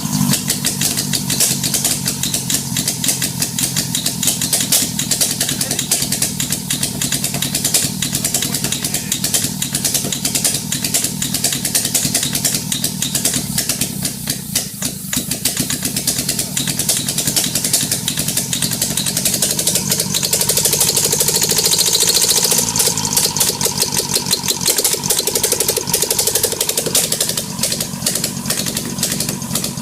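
Ford Focus 2 SHDA 1.6 Duratec inline-four petrol engine running on a test stand, a fast even firing throughout. About twenty seconds in it gets louder and brighter for a few seconds, as the revs rise, then settles again.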